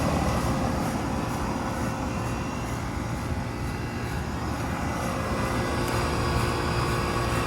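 2000 Payne Teardrop central air conditioner's outdoor unit running steadily at operating temperature: the condenser fan's rush over the low hum of its reciprocating compressor, with a few steady tones.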